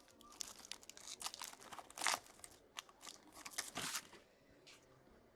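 Trading-card pack wrapper crinkling and tearing as it is opened by hand, a dense run of crackles and snaps that thins out near the end.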